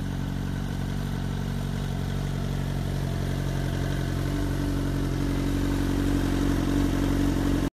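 Toyota Sienna minivan's engine running steadily at low speed as the van creeps along, an even low hum that grows slightly louder and then stops abruptly near the end.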